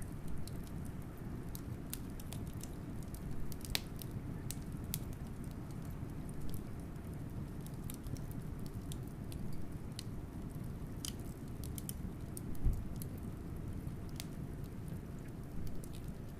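Wood fire crackling with sparse sharp pops and snaps over a steady low rumble of blizzard wind. A dull low thump about three-quarters of the way through.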